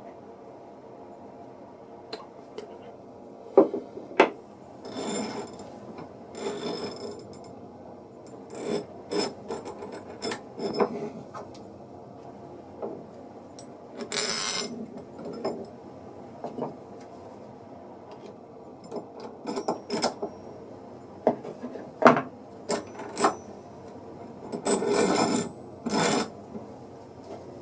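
Wooden quick-release vise being handled: wood sliding and scraping against wood in short bursts, broken by irregular sharp knocks and clicks.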